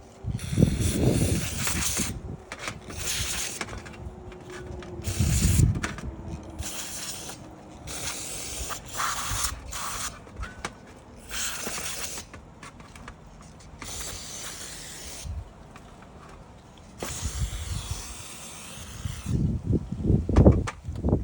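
Repeated short hissing spray bursts, about ten of varying length, while Honda CRF230F carburetor parts are cleaned. Low knocks and clatter from the parts being handled come in between.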